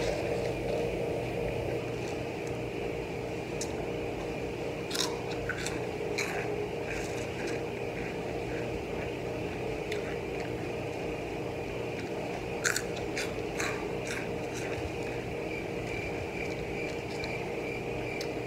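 Close-up chewing and crunching of Hot Cheetos, with scattered sharp crunches, over a steady background hum.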